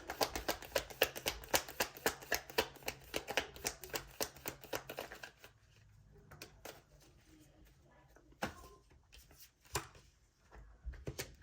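A tarot deck being shuffled by hand: a quick run of card slaps and flicks, about seven a second, that stops about five seconds in, followed by a few scattered taps of cards.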